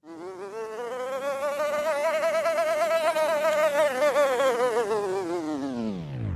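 Cartoon sound effect from a phonics animation: a buzzing, fast-wavering tone that climbs a little, holds for several seconds, then slides steeply down and cuts off near the end.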